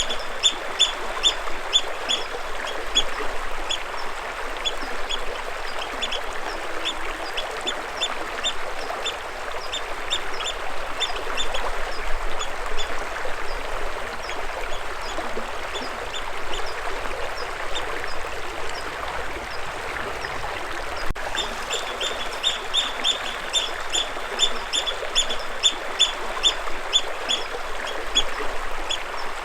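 A bird chirping in rapid runs of short, high, repeated calls, several a second, over the steady rush of flowing water.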